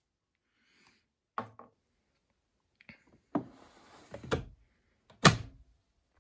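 A few separate knocks and thuds, the loudest about five seconds in.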